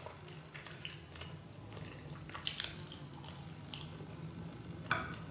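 Quiet, wet chewing sounds from a mouthful of food, with a few short clicks, the sharpest about two and a half seconds in.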